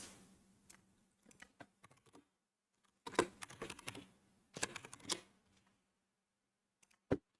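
Computer keyboard typing in two short bursts of keystrokes, about three and four and a half seconds in, then a single click near the end.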